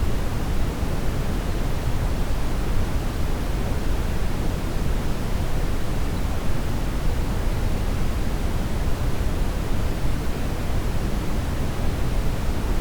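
Steady brown noise: an even, unchanging hiss weighted heavily toward the deep end.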